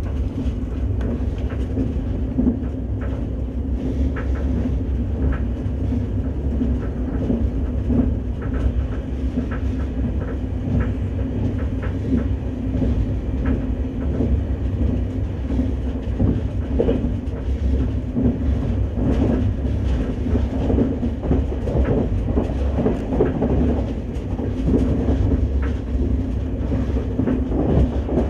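KTX high-speed train running at speed, heard inside the passenger cabin: a steady low rumble of wheels on rail, with scattered faint clicks.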